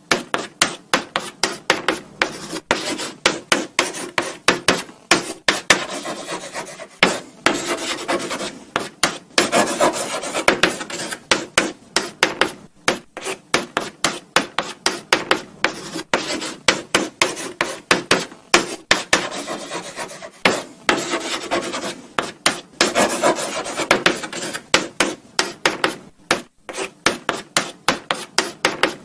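Chalk writing on a blackboard: a continuous run of short, quick scratching strokes, with longer scraping stretches here and there.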